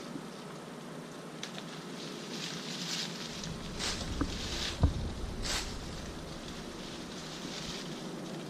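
Leafy branches rustling and swishing as they are handled and cut, with a single dull thump about five seconds in, over a steady outdoor hiss.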